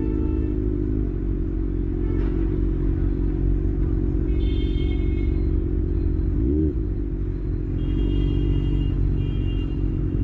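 Vehicle engine running steadily in traffic, with a short rev that rises and falls about six and a half seconds in. Short high-pitched horn honks sound a few times in the second half.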